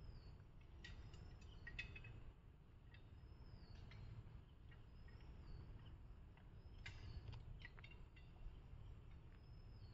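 Near silence with a faint low rumble, over which a bird repeats a short, high call that drops in pitch every few seconds, with a few faint chirps around it.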